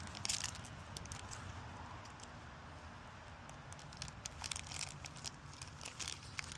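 Trading-card foil packs and cards being handled: scattered crinkles and rustles, a cluster just after the start and more in the second half, over a steady low hum.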